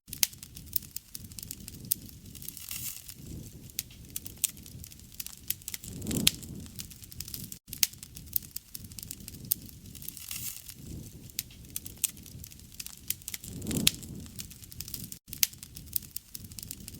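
Campfire burning, with wood crackling and frequent sharp pops over a low rushing sound that swells up about every seven to eight seconds. Two very brief dropouts break the sound.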